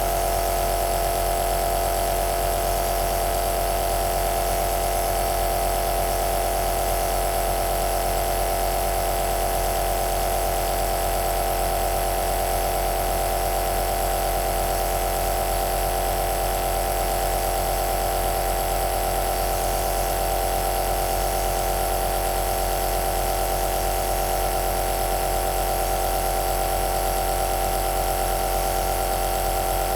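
Nebulizer compressor running steadily, a constant motor hum with a high hiss from the air flow.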